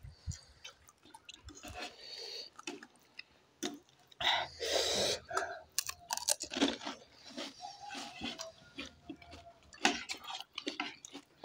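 Close-miked eating: crisp pani puri shells crunched and chewed, with a louder crunching bite about four seconds in.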